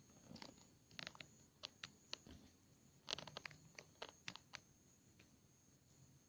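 Wood campfire crackling: faint, irregular sharp pops and snaps, bunched in the first two-thirds, the loudest about three seconds in.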